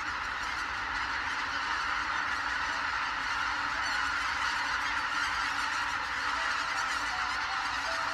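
Large flock of wild geese honking, many overlapping calls merging into a dense, steady chorus. A few soft held music notes come in near the end.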